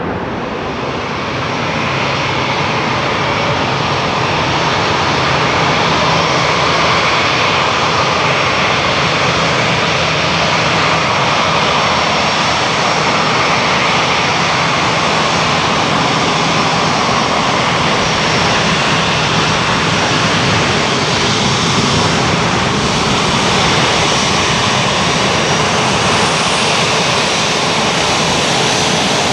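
Airbus A350-900's Rolls-Royce Trent XWB jet engines, loud and steady, swelling over the first few seconds and then holding.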